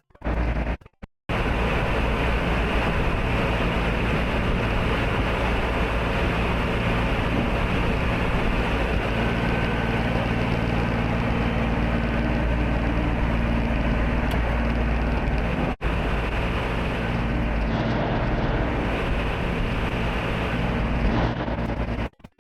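A vehicle engine running steadily with a low drone. There is a momentary dropout about two-thirds of the way through.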